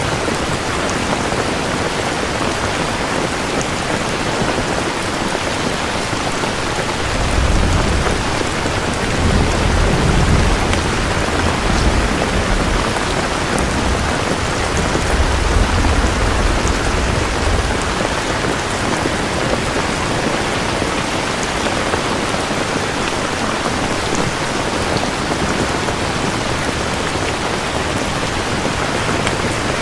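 Steady rain with thunder rumbling low from about a quarter of the way in until a little past the middle.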